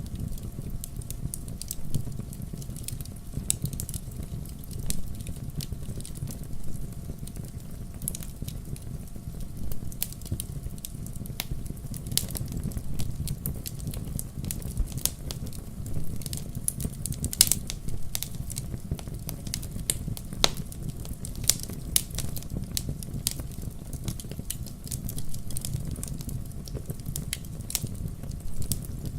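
Wood fire crackling in a fireplace: a steady low rumble of flames with frequent irregular sharp pops and snaps, a few louder ones in the second half.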